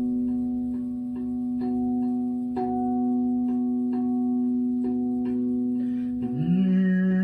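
A singing bowl rings in a steady drone while short metal-tongue notes from a rav drum or sansula are struck over it at a slow, steady pace. Near the end a voice slides up into a long held hum.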